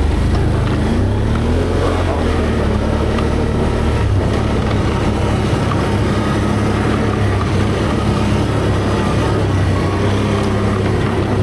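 ATV engine running steadily as the four-wheeler rides over a rough trail.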